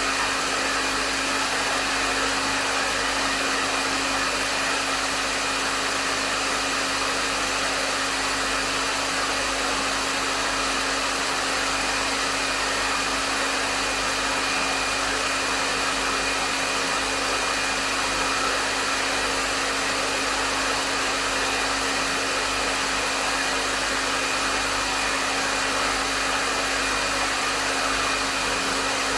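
Hair dryer running steadily at a medium setting: a constant rush of air with a steady motor hum underneath and no changes.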